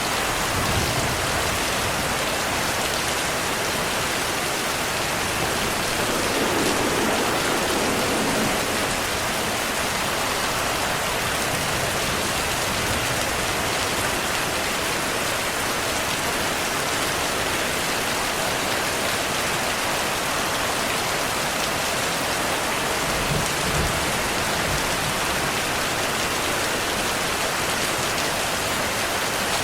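Steady, dense rain falling and pattering on surfaces. Two brief low rumbles of distant thunder rise under it, one about a fifth of the way in and another near three-quarters of the way through.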